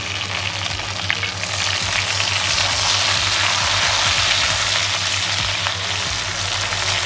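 Tomato slices and golden-browned onions sizzling in hot oil in a pan, stirred with a silicone spatula. The sizzle grows louder about a second and a half in, as the stirring turns the tomatoes through the oil.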